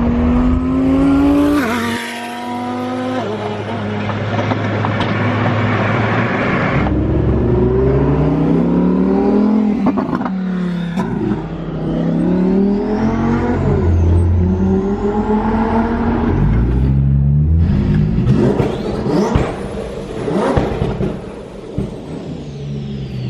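Twin-turbo Lamborghini Huracan Performante's 5.2-litre V10 accelerating hard, its revs climbing and dropping sharply at each gear shift, several times over. A high whistle rises and falls near the end.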